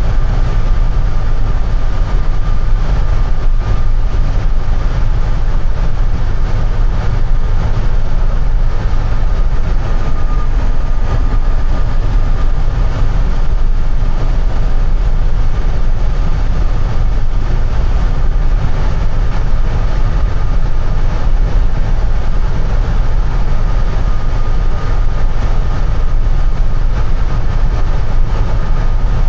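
Steady low road and engine rumble inside a moving vehicle's cabin on the highway, with a faint steady high tone over it.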